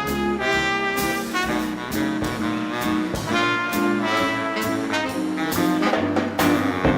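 A swing combo playing with a horn section of trumpet, trombone and saxophone, short brass notes changing in a steady beat over drums.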